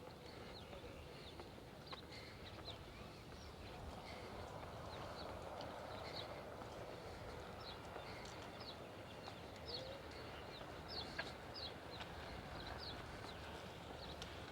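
Small birds chirping repeatedly in short high notes, busier after a few seconds, over a faint steady background noise.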